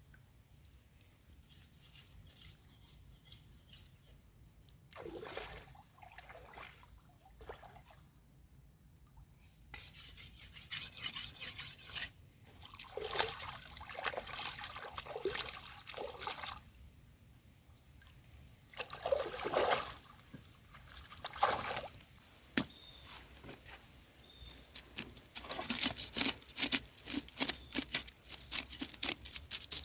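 Water pouring and trickling in several spells, then a quick run of short taps or clicks in the last few seconds.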